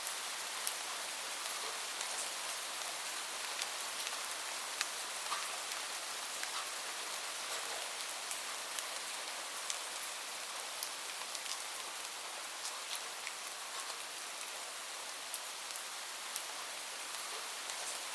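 Steady rain falling, an even hiss with frequent close drops ticking on a surface.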